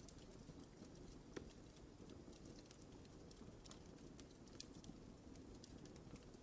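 Wood fire crackling in a fireplace: faint, scattered pops and snaps over a low, soft rumble of burning, with one clearer pop about a second and a half in.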